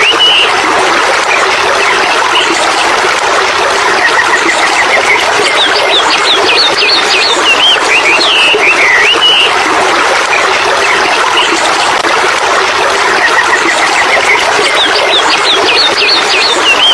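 Songbirds chirping and trilling over a steady rushing background noise. The same chirps and trills come back at even spacing, about every nine seconds.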